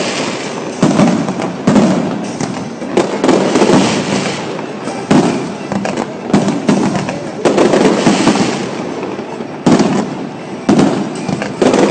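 Aerial firework shells bursting one after another, a sharp bang roughly every second, each followed by a rumble that fades before the next.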